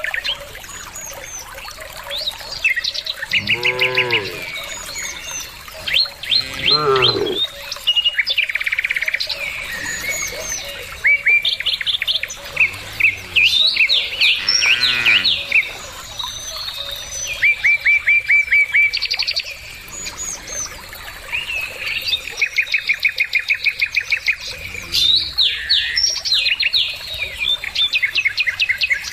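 Small birds chirping in rapid, repeated trills throughout, with cows mooing several times in long low calls, a few seconds in, near seven seconds, around the middle, and once more faintly later on.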